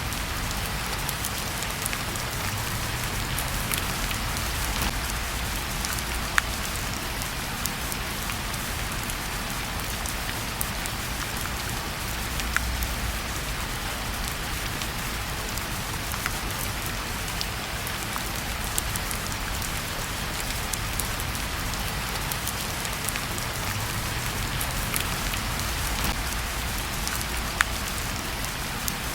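Steady rain hiss with a low rumble, scattered with sharp crackles and pops from a wood fire in a fireplace; two pops stand out louder, one about six seconds in and one near the end.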